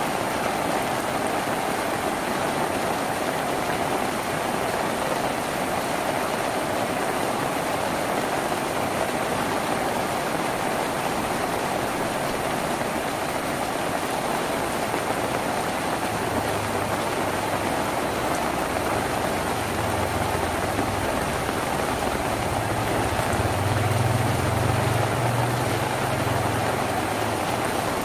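Rain falling steadily on a tin roof, an even hiss. A low rumble comes in about halfway through and is loudest near the end.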